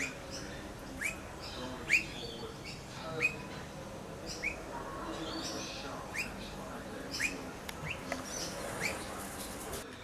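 Bird chirping: short, quick upward-sliding notes repeated roughly once a second, with fainter calls of other birds behind.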